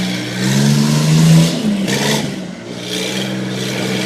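Straight-piped John Deere Gator utility vehicle's engine revving up about half a second in and easing off around two seconds in, then running steadily.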